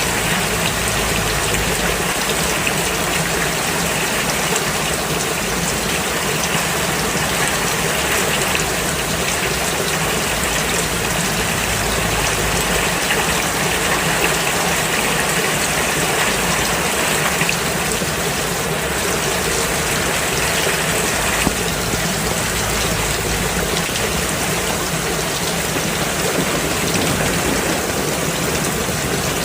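Steady rain falling on a road, an even hiss of drops and running water that does not change.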